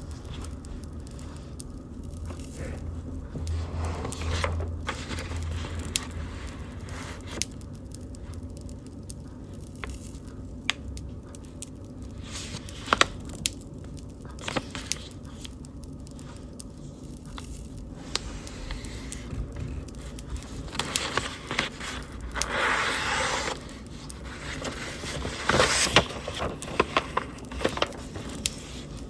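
Wood fire crackling, with frequent sharp pops and snaps over a low steady background, and a couple of short bursts of hiss past the middle.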